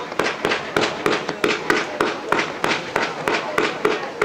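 Fireworks going off in a rapid, evenly spaced string of sharp bangs, about three a second, each followed by a short fading echo.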